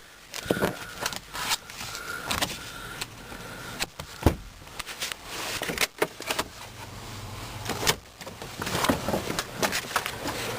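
Scattered clicks, knocks and rustles of an SUV's interior fittings being handled, such as seat latches and panels, with one sharper knock about four seconds in.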